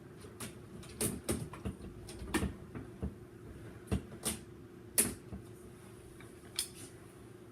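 Irregular light clicks and knocks, about ten of them and the sharpest about five seconds in, over a steady low hum.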